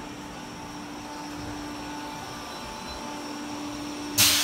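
Sanyo Electric Railway electric train standing at the platform with a steady whine from its onboard equipment, then a sudden loud hiss of released compressed air near the end as it comes to a stop.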